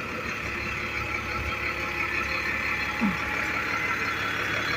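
Steady street traffic noise, with vehicle engines running at idle and a low rumble.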